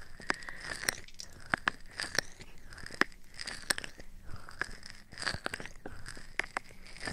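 Close-miked ASMR trigger sounds: soft rubbing swells on the microphone, coming and going every second or so, with crisp clicks and crackles scattered throughout.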